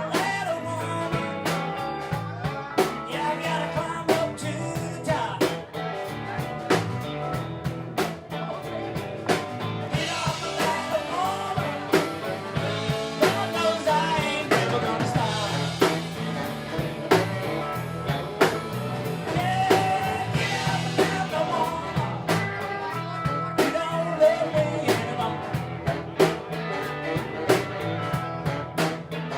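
Live band playing: electric guitar, bass and drum kit with a steady beat.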